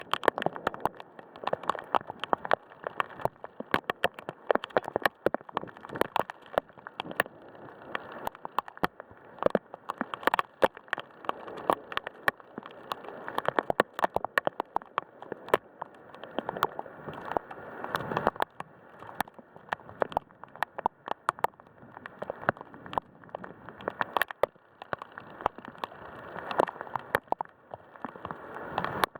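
Heavy rain from a thunderstorm, with a steady wash under dense, irregular sharp ticks of drops striking a hard surface close by.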